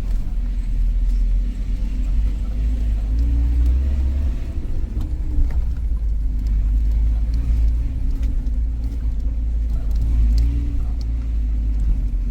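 Suzuki Jimny driving slowly over a rough, rocky off-road track: a steady low engine and road rumble, with a slightly wavering engine note and a few light clicks and rattles.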